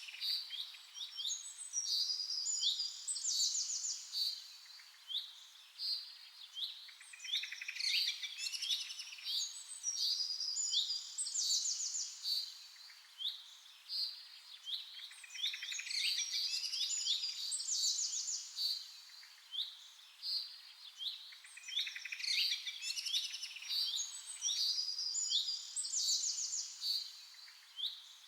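Several birds chirping and singing together in quick, high, overlapping chirps and trills, swelling in bursts that come back about every eight seconds.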